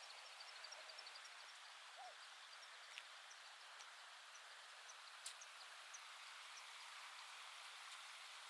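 Near silence: a faint steady outdoor hiss with a few faint high chirps and clicks.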